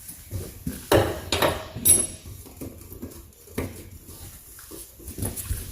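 Steel hand wrenches knocking and clinking against a rusty suspension nut and bolt. A few irregular sharp metallic knocks; the loudest come about a second in and about two seconds in, the second with a brief ring.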